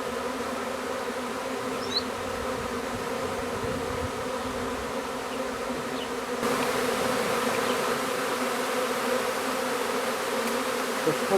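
Honey bee swarm buzzing: the steady hum of many bees at once as the swarm moves into a spare brood chamber. It gets a little louder about six seconds in.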